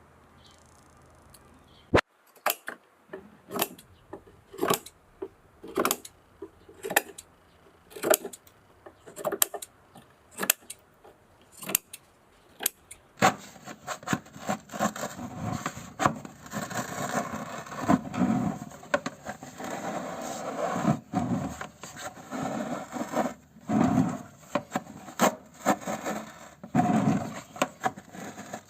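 Repeated rubbing and scraping strokes, like a hand tool working a hard surface, after a sharp click about two seconds in. At first the strokes come about once a second; from about halfway through they come denser and more continuous.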